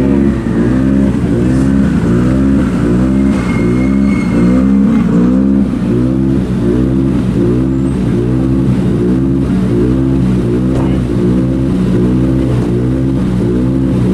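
Rally car engine running at a steady speed with a lumpy, regular pulse that rises and falls about twice a second.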